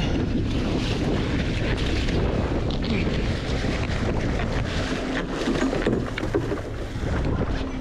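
Wind buffeting the microphone on a small fishing boat, with steady boat and water noise underneath.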